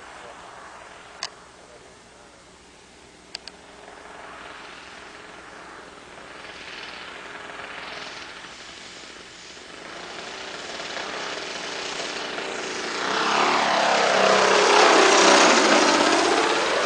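Two-stroke Quadra Q65 gas engine of an RC Fly-Baby biplane model, faint at first and growing steadily louder as the plane comes in close, its pitch sweeping down as it passes in the last few seconds. Two sharp clicks in the first few seconds.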